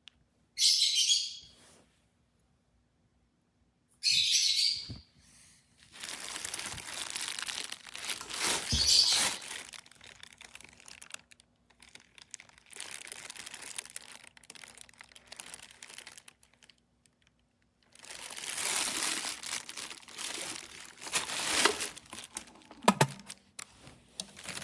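Wrapping crinkling and rustling in irregular stretches as it is handled, with a few knocks. Near the start there are two short, bright, high-pitched bursts.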